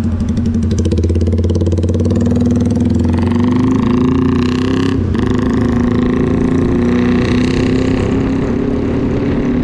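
Motorcycle engine running steadily while riding on the road, its pitch rising and falling a little as the throttle changes.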